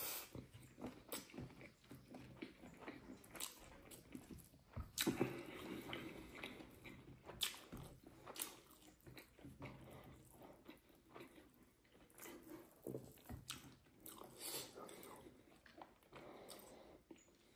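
A person chewing and biting food close to the microphone, with irregular wet mouth clicks and smacks: mukbang eating of fried pork and rice.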